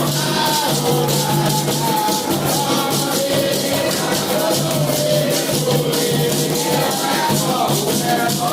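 Candomblé festival music: voices singing a melody over a steady rhythm of shakers and percussion.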